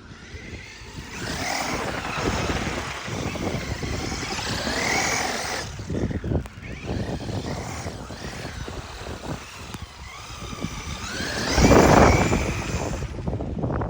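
Traxxas radio-controlled car's motor whining as it revs up and down in repeated surges, the loudest about twelve seconds in.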